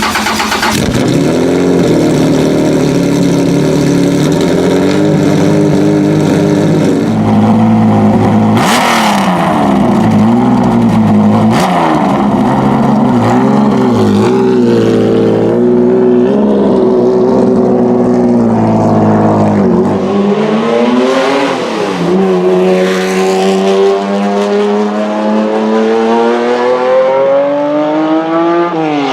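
Straight-piped Honda NSX C30A V6, stroked to 3.5 litres with individual throttle bodies, running just after start-up. It idles with repeated throttle blips, then revs climb slowly and steadily for several seconds before dropping and rising again at the end.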